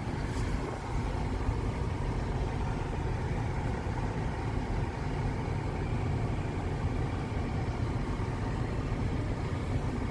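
A car's engine running with a steady low rumble, heard from inside the car.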